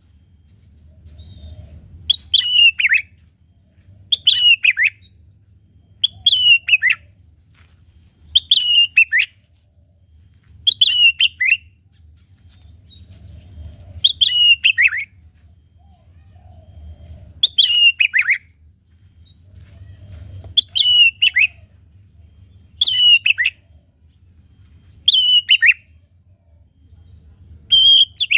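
White-rumped shama (murai batu) calling over and over, the same short falling phrase about every two seconds with a few longer pauses, calling out to challenge a rival. A faint steady low hum lies underneath.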